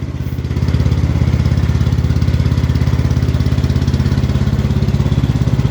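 Cub Cadet XT1 Enduro Series garden tractor engine running steadily, with an even, fast firing pulse. It picks up slightly about a second in.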